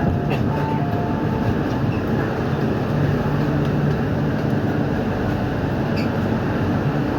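MTR Q-train metro car standing at a platform, its onboard equipment giving a steady hum.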